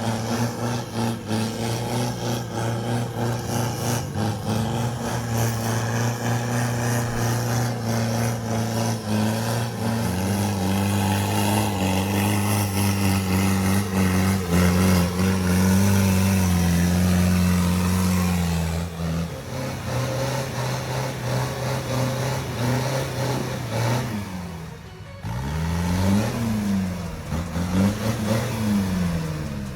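Truck engine running steadily under load, its pitch stepping between levels. After a brief drop, it revs up and down again and again near the end.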